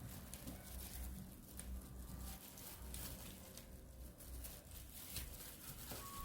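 Faint, irregular small clicks and rustles over a low steady hum.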